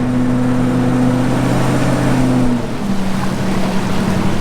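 A vehicle engine running at steady speed, then easing off about two and a half seconds in, its pitch dropping to a lower steady note.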